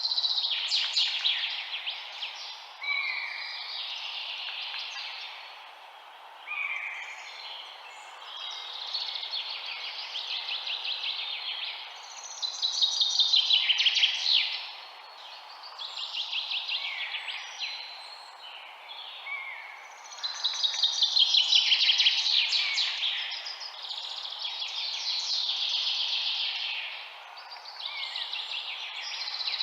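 Songbirds singing a run of fast trilled phrases, each a few seconds long and repeated with short gaps, over a faint steady hiss.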